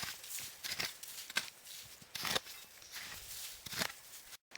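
Shovel scraping and scooping snow in a series of irregular strokes, roughly one every half second to second.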